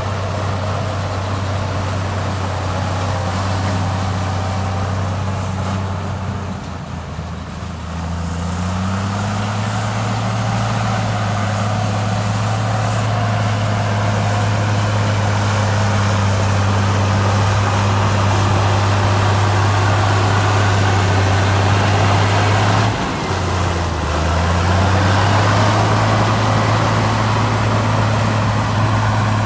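Heavy earthmoving machine's diesel engine running steadily. Its pitch drops twice, about a quarter of the way in and again near the end, and climbs back up each time as the engine comes back under load.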